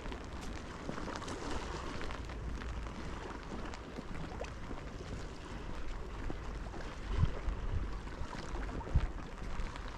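Steady hiss of rain and wind outdoors, with wind buffeting the microphone and a few low thumps about seven and nine seconds in.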